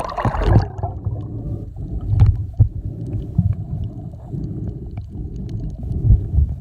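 Kayak on the water while paddling: a low rumble of water and wind on the microphone, swelling every second or so, with a few light knocks and splashes.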